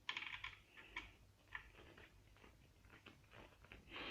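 Faint handling noises while the outboard motor's mounting bracket is tightened: a short burst of fast clicking at the start, a sharper click about a second in, then scattered light clicks and knocks.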